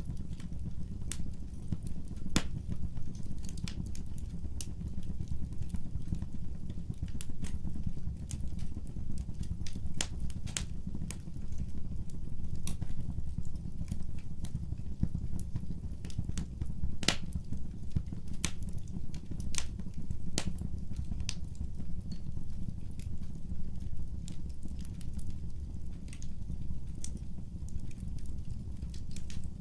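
Wood fire burning: irregular sharp crackles and pops over a steady low rumble of the flames, with one louder snap about halfway through.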